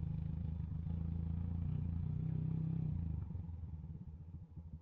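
Motorcycle engine running steadily at low revs. About three seconds in it eases off to a quieter, uneven low putter.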